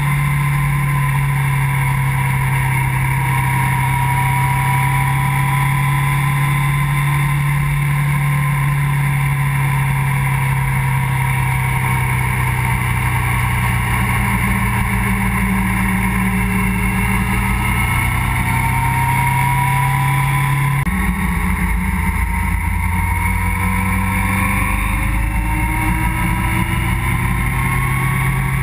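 Motorcycle engine running steadily at road speed through a series of bends, heard from the bike itself. The engine note changes suddenly about two-thirds of the way through.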